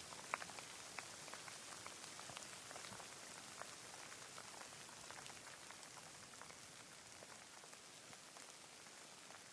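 Rain falling: an even, quiet hiss with scattered individual drops ticking close by, one sharper drop just after the start.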